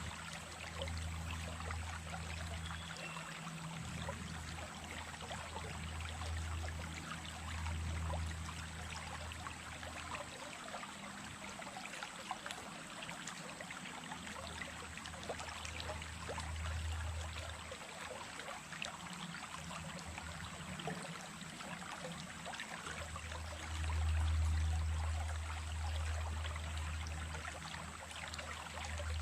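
Small creek running, a steady splashing and trickling of water, with a low rumble underneath that swells and fades several times.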